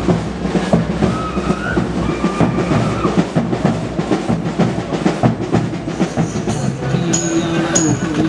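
Loud festival music: fast, dense drumming with a wind instrument playing held, wavering notes over it.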